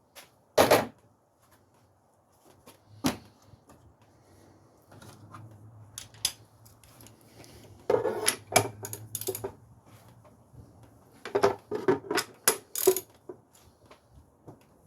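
Hand tools clinking and knocking against metal while a motor mount is bolted in: single sharp clanks, then quick runs of small metallic clicks about halfway through and again near the end.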